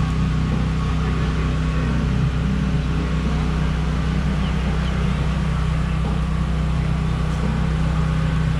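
An engine running steadily, giving a constant low hum with no change in speed.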